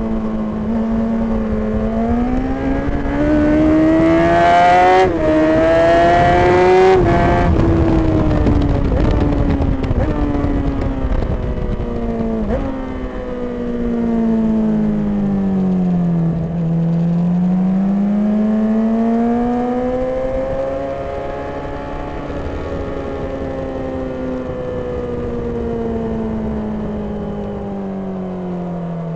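2008 Honda CBR1000RR Fireblade's inline-four engine at full track pace: revs climb with a quick upshift about five seconds in, fall away for several seconds under braking, climb again, then ease off. Wind rush over the bike is loudest while the revs are highest.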